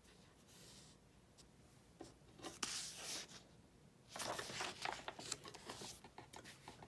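Paper pages of a picture book rustling as they are handled and turned, in two spells, about two seconds in and again about four seconds in.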